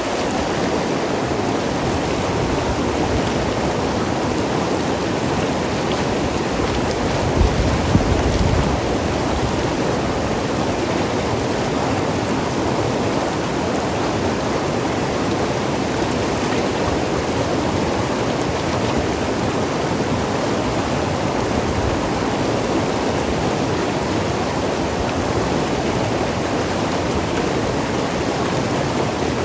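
Mountain river rushing and gurgling over rocks, a steady, even water noise. There is a brief low rumble about seven to eight seconds in.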